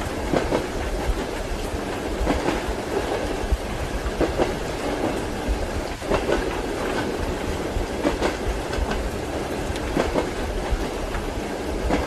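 Train wheels clicking over rail joints in paired knocks about every two seconds, over a steady rolling rumble of a moving railway carriage.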